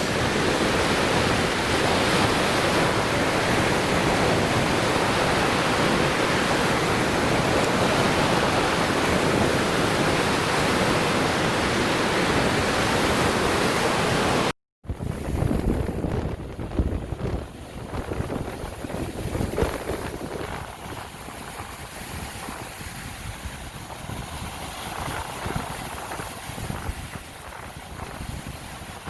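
Lake Michigan waves breaking on the shore, a steady wash of surf. About halfway through the sound cuts out for a moment and comes back quieter, with gusts of wind buffeting the microphone over softer surf.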